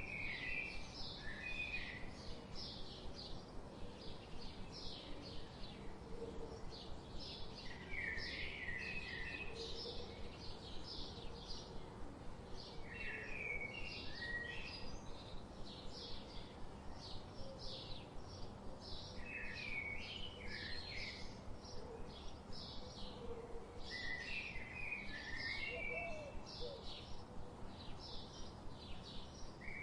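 Songbirds chirping: a steady run of short high chirps, about two or three a second, with a lower warbled song phrase breaking in every five or six seconds.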